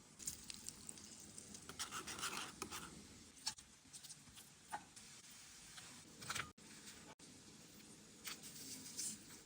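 Faint scraping, rustling and light ticking from hands and utensils handling food during preparation, in a run of short separate strokes with a few abrupt breaks.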